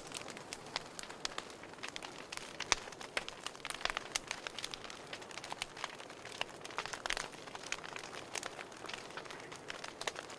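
Wood fire in a fireplace crackling: irregular sharp pops and snaps over a soft steady hiss of burning.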